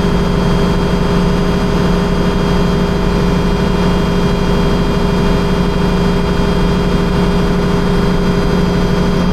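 Tractor engine running steadily with the hydraulics engaged, driving the sprayer's pump, a constant drone with a faint steady whine above it.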